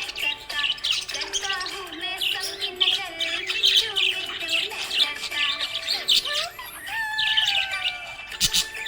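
Budgerigar chirping and warbling in quick, busy runs, over a melody of background music.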